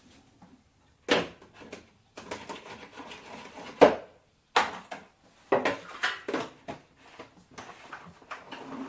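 Kitchen clatter: a run of separate knocks and clinks as dishes and utensils are handled and set down, the sharpest about four seconds in.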